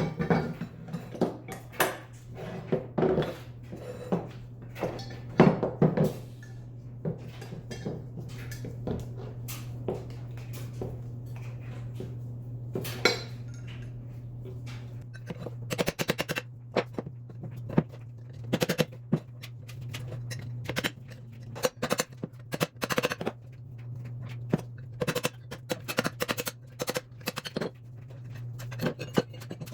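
Small metal bike parts and tools clinking and knocking against each other and a hard surface, in scattered irregular strokes, over a steady low hum.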